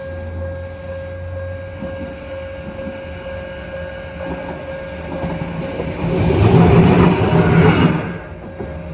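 A Randen (Keifuku Arashiyama Line) train passing over a level crossing, loudest about six to eight seconds in. Under it the crossing's warning alarm sounds an unusual steady tone, which cuts off near the end.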